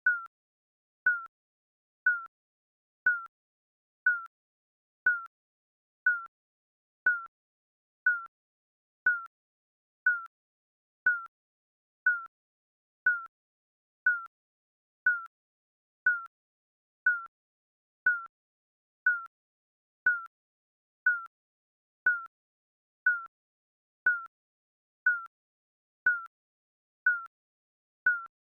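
Digital countdown timer beeping once a second: short electronic beeps, each dipping slightly in pitch, with silence between.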